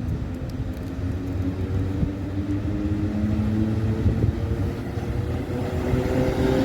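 Polish EP07 electric locomotive hauling a passenger train, running with a low hum of several steady tones over a rumble. It grows gradually louder, and the tones edge up in pitch near the end.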